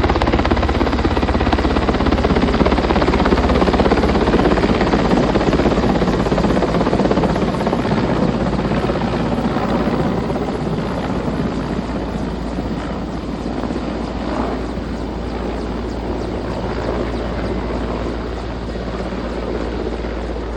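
Helicopter rotor and engine running close by, a loud, steady noise that gradually grows quieter over the second half.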